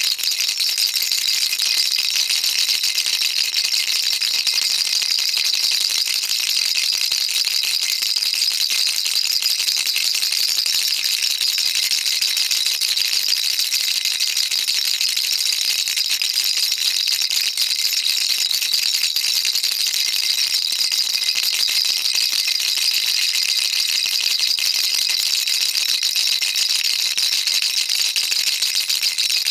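Baby rattle shaken without a break: a dense, even, high-pitched patter of small beads or pellets striking the inside of the rattle's shell.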